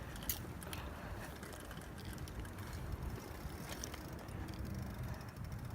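Bicycle rolling along pavement with a steady low rumble of wind and tyre noise on the microphone. From about four seconds in, the rear freewheel ticks rapidly as the bike coasts.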